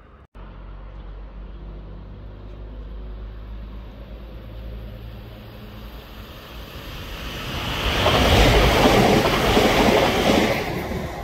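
Diesel multiple-unit passenger train passing through a station at speed: a low engine hum grows into a loud rush of wheels on rail and air, loudest from about 8 to 10 seconds in, then easing off near the end.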